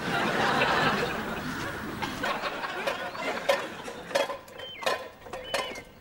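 A loud rushing noise in the first two seconds fades out. Then come sharp clicks and short, high bird chirps, repeated several times near the end.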